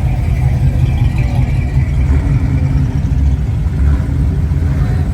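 A car engine running under a steady low rumble of road noise.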